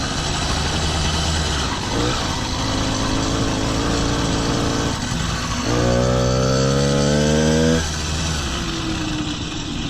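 100cc two-stroke motorized-bicycle kit engine running under way, with wind and road noise. About six seconds in it revs up, rising in pitch for about two seconds, then drops back sharply as the throttle is eased.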